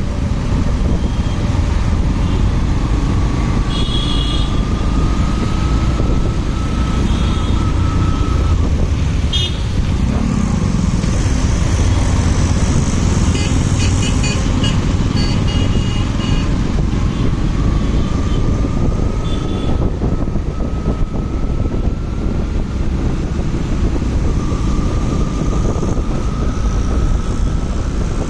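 Motorcycle riding in traffic, with steady wind buffeting on the microphone and a whine that rises slowly in pitch three times as the bike picks up speed. A few short high toots sound over it.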